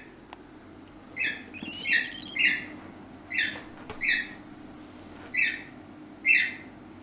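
A pet bird giving short calls, about seven in all at uneven gaps, over a faint steady hum.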